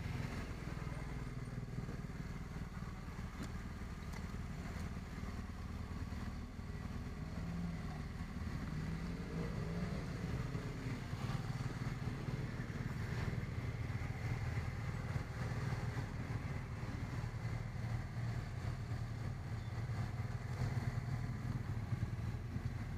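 BMW 650 GS motorcycle engine running steadily while riding, a low drone with little change in pitch.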